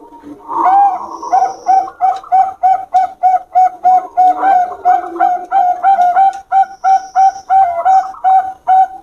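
Zebra dove (perkutut, Bangkok strain) cooing: a longer opening note, then a steady rhythmic run of short coos, about three a second.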